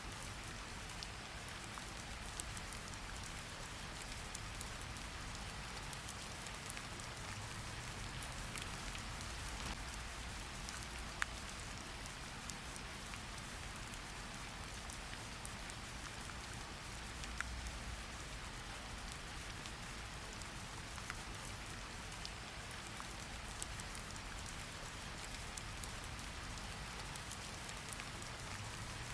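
Steady rain falling, an even hiss with a low rumble beneath and scattered close drops ticking on a surface.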